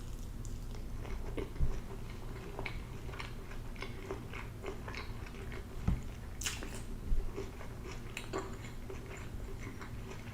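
Someone eating Ethiopian food: wet chewing with many small, irregular mouth clicks and smacks, and a few soft low thumps.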